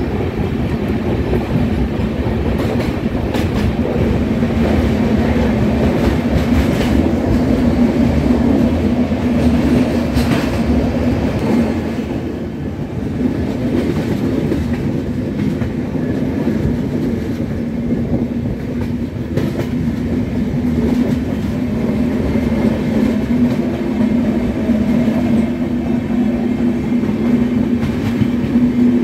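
Passenger train running along the track, heard from aboard the coach: a steady rumble of wheels on rails with a low hum. It is louder in a tunnel and drops a little as the train comes out into the open partway through.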